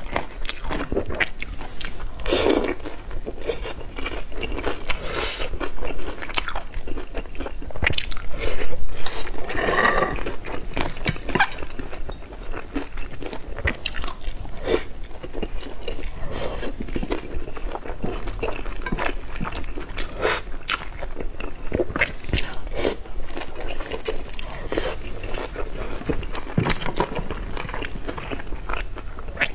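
Close-miked biting and chewing of pan-fried dumplings: a steady run of wet mouth clicks and smacks, loudest about eight to ten seconds in.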